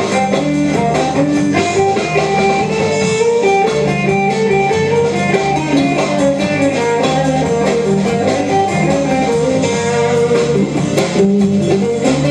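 Instrumental band music led by guitar, playing a line of quick notes over a steady backing at an even, loud level.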